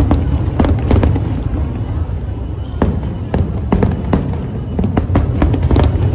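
Aerial fireworks going off: a rapid, irregular series of sharp bangs and crackles over a continuous low rumble of bursting shells.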